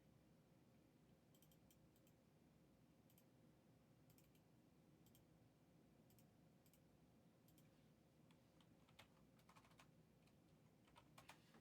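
Near silence with faint, scattered computer keyboard clicks, a few at a time, coming closer together near the end.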